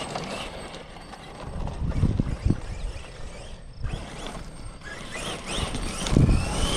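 Losi 5ive TE 3.0 electric RC truck driving over rough ground, its brushless motor giving faint rising whines near the end.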